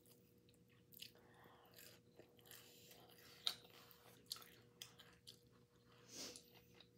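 A person chewing barbecue chicken close to the microphone: faint, scattered wet mouth clicks and smacks, with one sharper click about three and a half seconds in.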